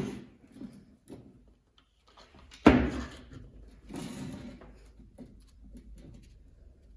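Handling noises of a repair: scattered clicks and knocks, one sharp knock nearly three seconds in, then a rattling clatter about a second later.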